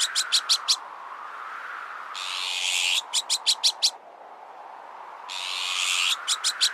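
Azure-winged magpie alarm calls, repeated about every three seconds: a harsh, raspy drawn note, then a quick run of four or five short harsh notes. Under them is the sound of strong wind, swelling and easing.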